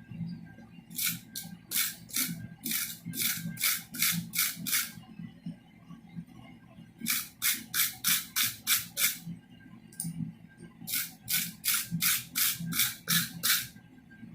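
Quick back-and-forth abrasive strokes on steel, each a short hiss, four to five a second, in three runs of about three to four seconds with short pauses between.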